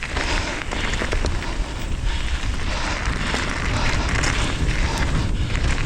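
Mountain bike rolling along a dirt singletrack trail: tyre noise with many small clicks and rattles from the bike, under a steady rumble of wind on the microphone.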